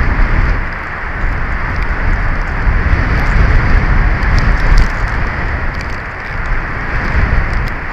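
Strong gusty wind buffeting the nest camera's microphone: a loud low rumble with a rushing hiss that swells and eases, with faint scattered ticks.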